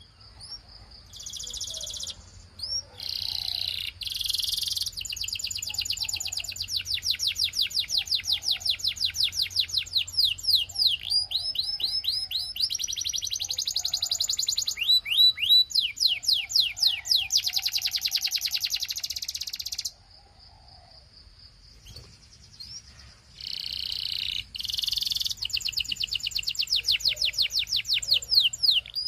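A domestic canary singing: long runs of fast repeated high notes and rolling trills, one phrase after another. The song breaks off for about three seconds about two-thirds of the way through, then starts again.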